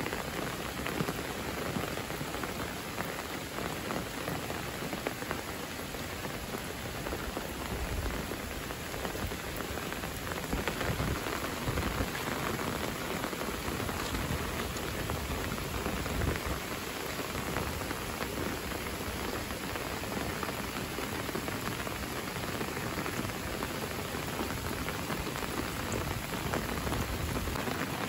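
Steady rain falling on foliage and a wet paved road: an even hiss that does not let up.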